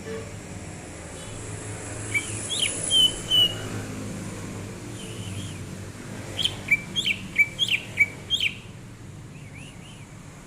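Green leafbird (cucak ijo) singing: a short phrase of sharp whistled notes about two seconds in, then a faster run of about eight quick up-and-down slurred notes a few seconds later, over a steady low background rumble.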